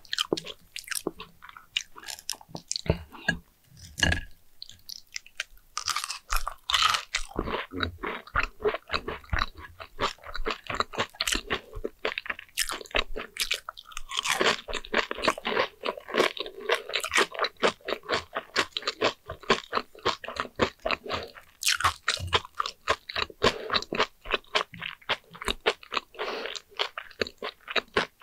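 Close-up chewing of fried sweet potato slices cooked with sugar: steady crunching, several crackles a second, with a brief lull about four seconds in.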